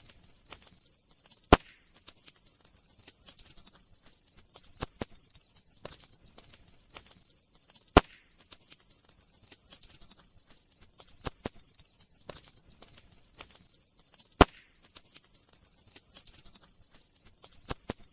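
Campfire crackling: scattered small wood crackles and snaps over a faint hiss, with three sharp loud pops.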